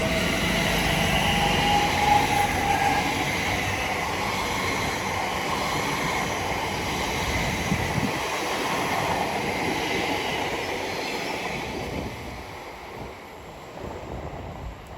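Elizabeth line Class 345 electric train pulling away: a rising traction-motor whine over wheel and running noise on the track. The rumble fades about twelve seconds in as the train leaves.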